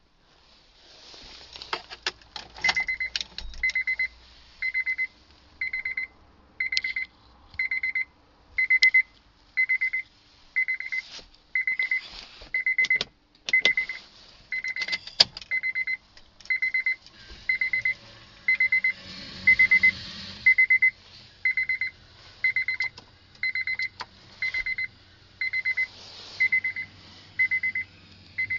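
A car's electronic warning beeper sounds a steady high beep about once a second, starting a few seconds in. Scattered clicks and rattles of handling fall between the beeps.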